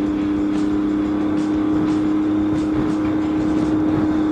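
Motorcycle engine cruising steadily at highway speed, a constant even drone with wind and road noise.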